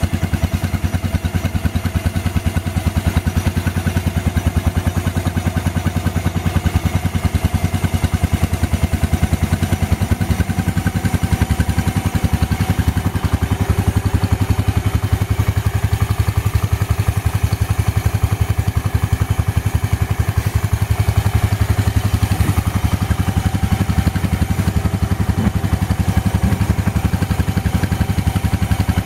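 Small tractor engine running at a steady idle just after a cold start in about 18°F weather; it started harder than normal.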